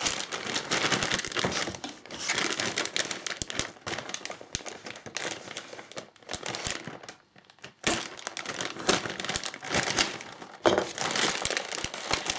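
Plastic packaging crinkling and rustling in stretches as model parts are unwrapped, with a pause of about a second midway.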